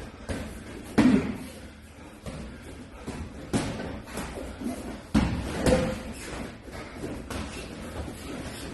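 Kickboxing sparring: gloved punches and kicks landing with dull thuds, the sharpest hits about one, three and a half and five seconds in.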